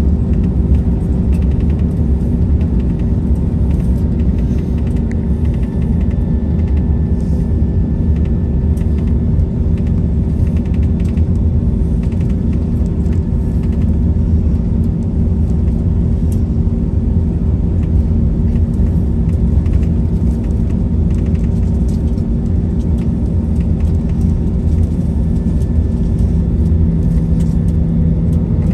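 Airbus A321-200 cabin noise on the ground, with the engines running at low power: a steady, even rumble and a constant hum. Faint ticks and rattles come through now and then.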